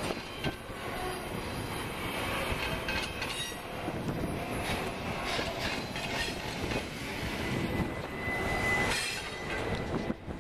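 Double-stack intermodal freight train rolling by on the junction connection, a steady rumble with wheels clicking over the rail joints, and a brief high wheel squeal about eight seconds in.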